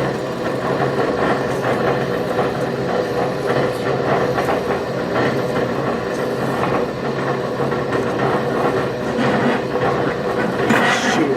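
Converted Craftsman 12-inch bandsaw slowed by a gear reducer, its half-inch 14 TPI blade cutting 5/8-inch mild steel: a steady motor and gearbox hum under a dense, even rattle of the blade in the metal, with a brief louder scrape near the end.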